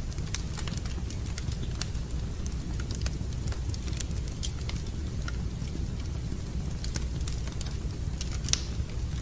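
Wood fire in a fireplace crackling: irregular sharp pops and snaps over a steady low rumble, with one louder pop near the end.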